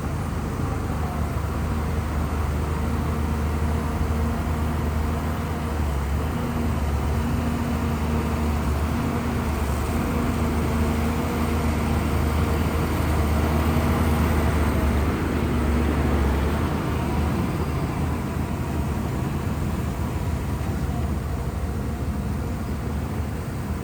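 Heavy Shantui crawler bulldozer's diesel engine running under load as it pushes mud and soil, a steady low drone. It grows a little louder in the middle and eases off near the end.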